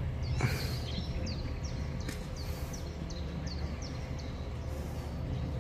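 A small bird calling over and over in short, high chirps that drop in pitch, over a steady low rumble of outdoor background noise, with a brief rush of noise about half a second in.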